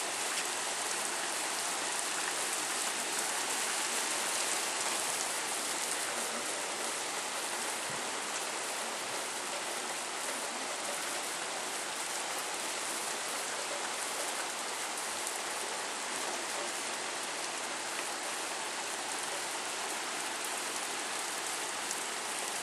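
Heavy rain pouring down steadily, an even hiss of rain hitting surfaces.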